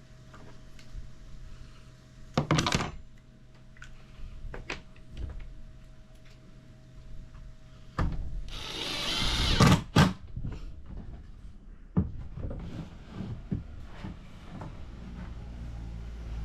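Knocks and clatter of wood and tools being handled, with a loud knock about two seconds in. About eight seconds in, a power tool runs briefly for about two seconds, ending in a couple of sharp knocks.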